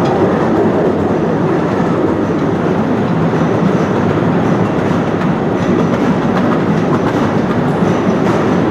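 Postojna Cave's narrow-gauge tourist train running along its track, a steady rolling noise of wheels on rail heard from on board an open carriage.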